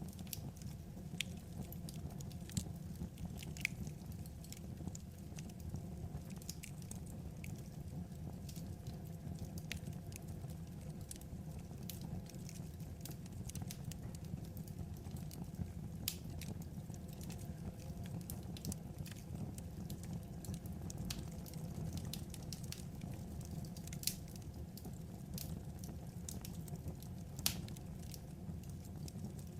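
Wood fire crackling: irregular sharp snaps and pops over a steady low rumble of burning logs.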